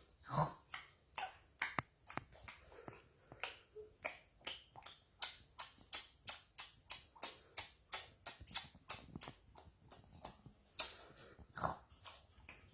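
Pet parrot making a run of sharp, irregular clicking sounds, about three or four a second.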